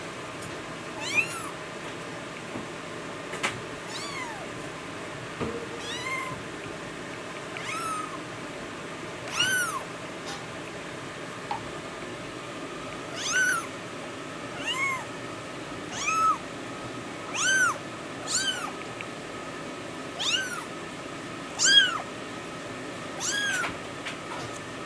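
Norwegian Forest Cat kitten meowing over and over: short, high-pitched mews, each rising and falling, coming every second or two and more often in the second half.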